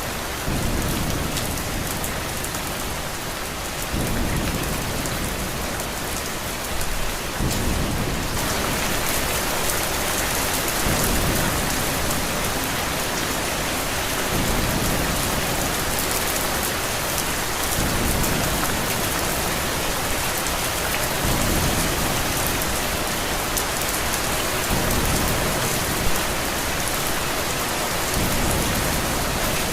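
Steady heavy rain with low rumbles of thunder swelling every few seconds. The rain grows louder about eight seconds in.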